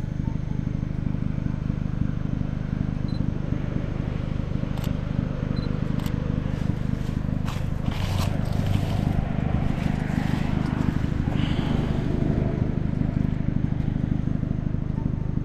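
A car engine idling steadily, with a few sharp camera shutter clicks around the middle.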